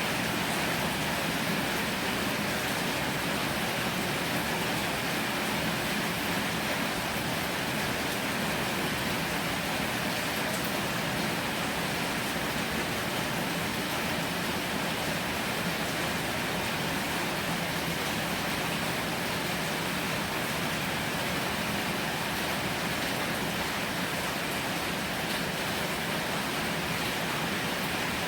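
Heavy rain falling steadily, an even dense hiss with no distinct drops or thunder.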